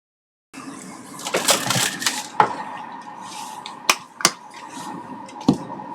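Clatter and sharp clicks of small hard objects being handled, a few louder knocks among them, over a faint steady hum. The sound cuts in abruptly about half a second in.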